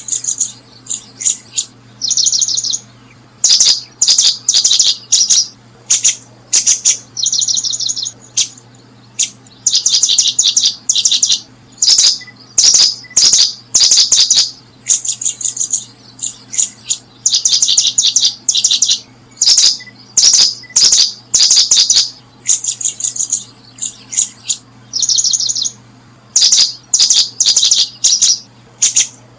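Small birds chirping loudly in rapid, repeated bursts of high calls, one burst after another all through, over a steady low hum.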